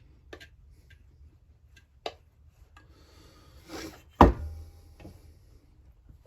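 Metal tools and chainsaw crankcase parts being handled on a workbench: a few light clicks, a short scrape, then one sharp knock about four seconds in with a brief metallic ring.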